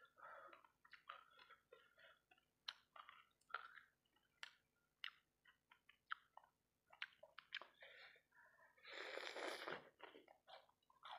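Close-miked mouth sounds of someone eating fried rice balls in sauce: many short wet clicks and smacks of chewing. About nine seconds in there is one longer, louder noisy sound lasting about a second.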